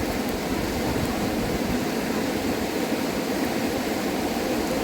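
Steady rushing of a fast-flowing river, an even noise that holds at one level throughout.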